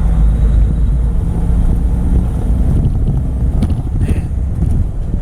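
Semi truck's diesel engine and road noise heard inside the cab while driving at speed: a steady, loud, low rumble.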